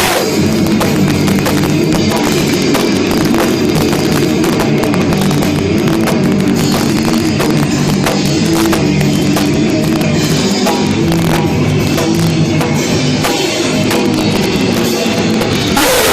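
Live hardcore punk band playing loud, fast music with pounding drums and distorted guitar, recorded with badly overloaded, muddy sound.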